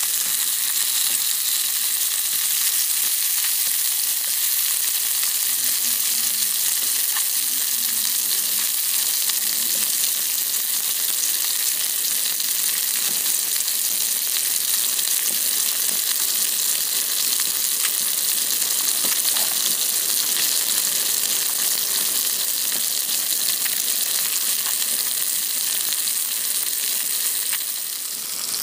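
Food frying, a steady sizzling hiss with faint small crackles scattered through it.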